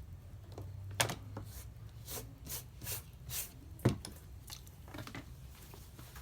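Two sharp clicks with a run of four or five softer scraping strokes between them: small hard objects being handled on a work surface.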